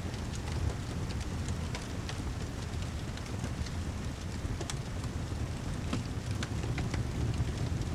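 Steady rain with a low, continuous rumble, mixed with a crackling wood fire giving irregular sharp pops throughout.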